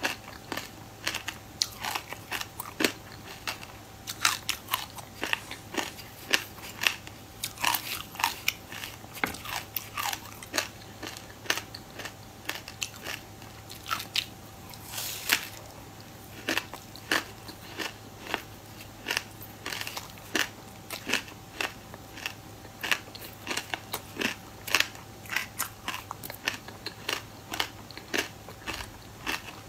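Close-up chewing of dry buckwheat grains with frozen passion fruit: rapid crisp crunches, several a second without a break, with one longer crunch about halfway through. A faint steady hum lies underneath.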